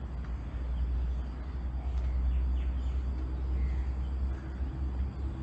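Outdoor ambience: a low steady rumble with a few faint bird chirps.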